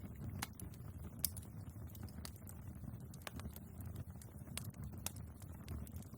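Wood fire burning in a fireplace: a steady low rumble with scattered sharp crackles and pops from the logs, one louder pop about a second in.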